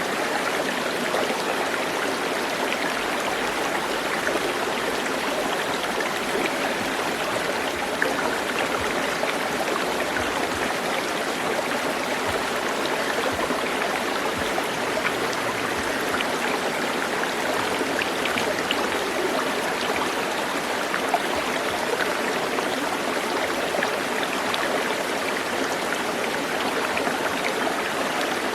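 A stream running steadily: an even rush of flowing water with no change in level.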